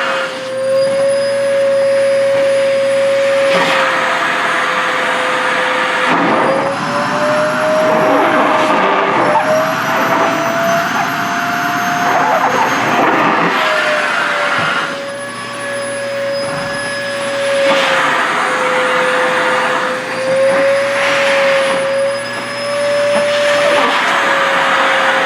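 SHARP EC-KP7F-A vacuum cleaner running continuously while sucking at a fabric skirt, a steady rush of air under a motor whine that drifts slowly up and down in pitch as the suction load changes.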